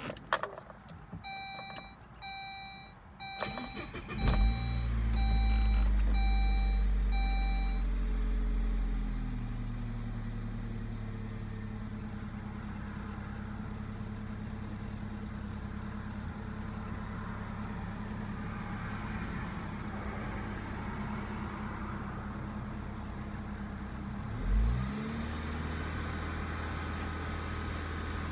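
Saab 9-3 Viggen's turbocharged 2.3-litre four-cylinder cranks briefly and starts about four seconds in, over a dashboard warning chime that repeats evenly for several seconds. A cold start: it runs at a raised idle and settles to a steady idle by about ten seconds in. One short throttle blip comes near the end.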